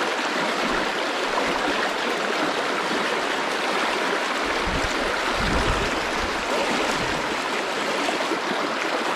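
Creek water flowing steadily, with a brief low rumble about five seconds in.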